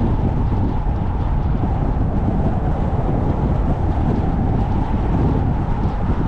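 Car driving along a road: steady, low-heavy rumble of tyre and wind noise.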